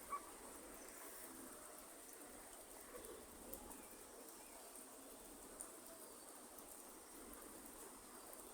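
Faint rainforest ambience: a steady high insect drone over a soft even hiss of light rain, with a few scattered drip ticks and occasional brief bird calls.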